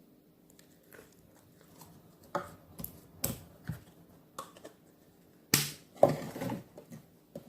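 Handmade glitter slime being played with by hand: scattered sticky clicks and pops, with two longer, louder squishes about five and a half and six seconds in.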